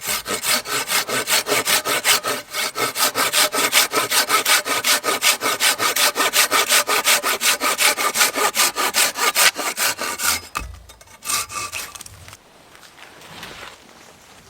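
Hand saw cutting through wood in quick, even strokes, about five a second. It stops about ten seconds in, after a few last strokes.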